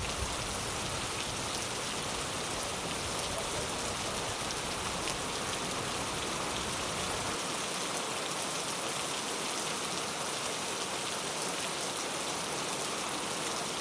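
Steady rain falling, an even hiss of drops. A low rumble beneath it drops away about halfway through.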